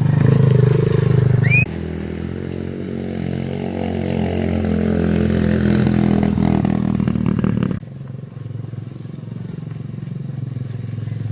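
Mini bike engine running under throttle. It revs up over a few seconds, and the level changes abruptly twice.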